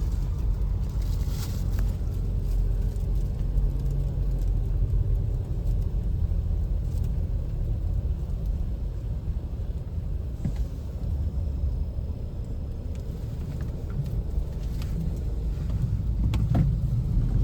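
Car driving along a snow-covered street, heard from inside: a steady low rumble of engine and tyres.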